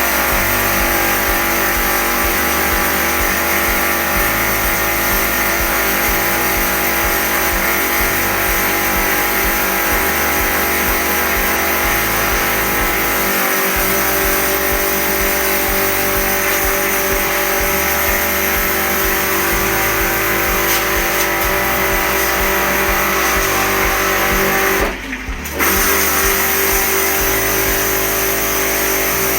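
Electric pressure washer running steadily under load. It cuts out briefly about 25 seconds in, then starts again.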